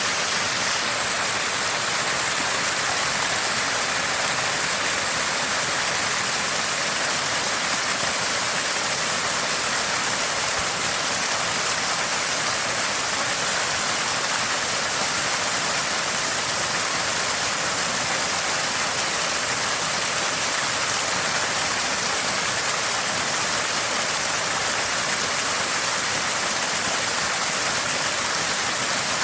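Water gushing from a small spring and splashing steadily in a constant, even gurgle with a bright, hissy edge.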